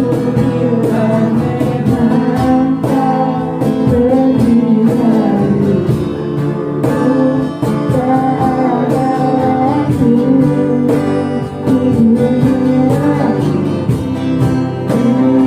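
Singing voice with acoustic guitar accompaniment: a sung melody held and bent over steady strummed chords.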